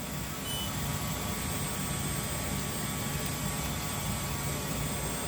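xTool F2 laser engraver running a second pass to cut through black acrylic: a steady whirring hum with a faint high whine.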